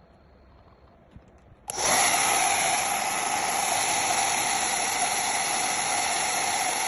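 Handheld hair dryer switched on about two seconds in, after a couple of faint clicks, then running steadily: an even rush of blown air with a thin high tone in it.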